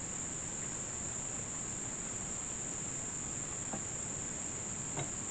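Steady, high-pitched chorus of insects, with a couple of faint knocks about two-thirds of the way in and near the end.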